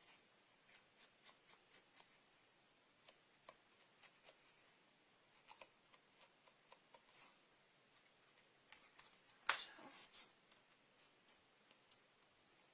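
Soft, scattered clicks and taps of paper-crafting tools and card stock being handled, with a louder brief scrape of paper about nine and a half seconds in.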